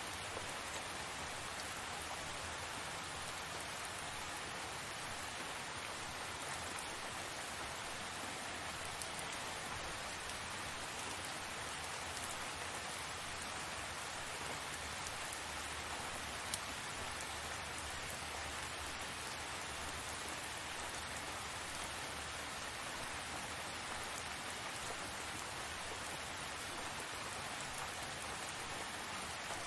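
Tropical rain falling steadily: a dense, even hiss of drops with scattered sharper drop ticks, one louder tick about halfway through.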